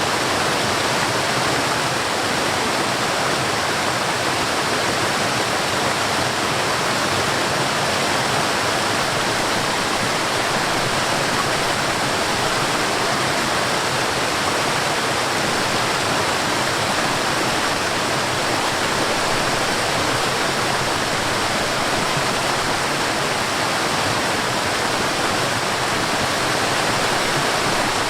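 Water rushing over rocks in a mountain stream and waterfall: a steady, even rush that does not change.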